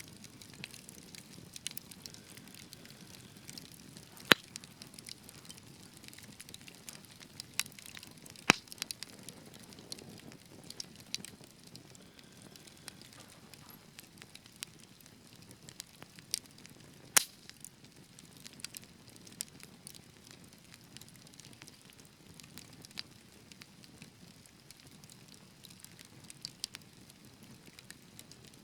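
Wood fire in a fireplace burning with a low steady hiss and irregular crackles, with a few sharp, louder pops about 4, 8 and 17 seconds in.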